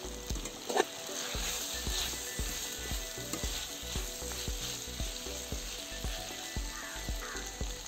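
Diced potatoes and capsicum frying and sizzling in an open steel kadai, stirred and turned over with a flat metal spatula.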